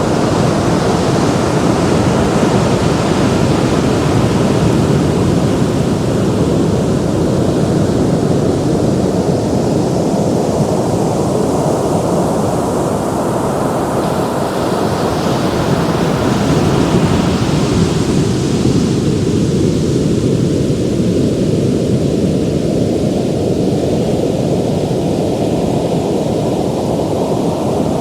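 Ocean surf: waves breaking and washing in a continuous rush, with one wave's hissing wash swelling about halfway through and then drawing back.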